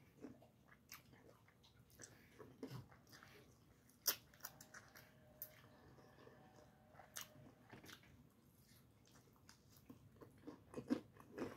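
Faint chewing and biting on a fried chicken wing, with scattered sharp crunches and mouth clicks; the loudest crunch comes about four seconds in.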